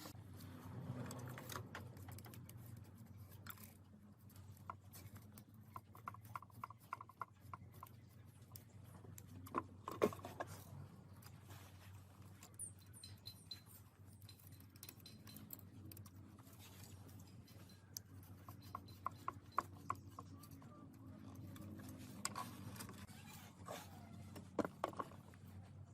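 Small clicks and taps of parts and hand tools being handled, some in quick runs and the loudest knock about ten seconds in, over a steady low hum.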